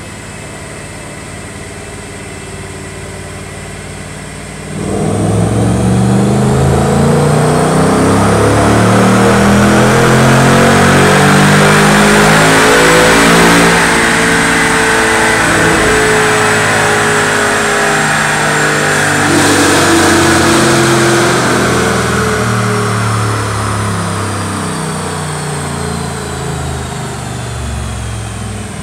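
2011 Ford Mustang GT's 5.0-litre V8 running through Gibson Performance mufflers on a chassis dyno. It idles, then about five seconds in it goes into a full-throttle dyno pull, the note climbing steadily for about nine seconds. Then the throttle closes and the revs wind down slowly as the rollers coast, with a brief rise in the note about two-thirds of the way through.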